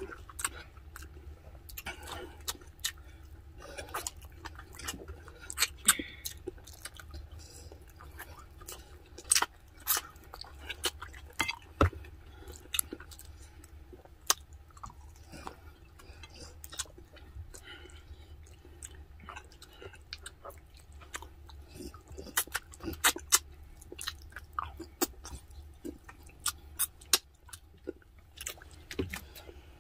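Close-miked chewing and wet mouth smacking as braised pork spareribs are eaten by hand off the bone, with many short sharp clicks scattered throughout over a low steady hum.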